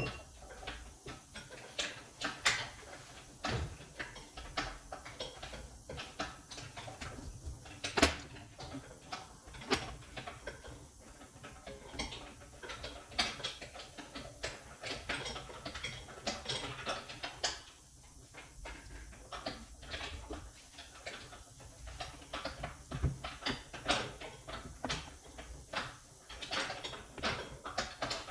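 Tools and parts being handled during work on a shock absorber: an irregular run of clicks and knocks, with a sharper knock about eight seconds in.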